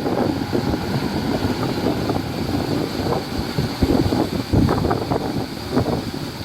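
Heavy diesel earthmoving machinery running with a low, uneven rumble, with wind buffeting the microphone.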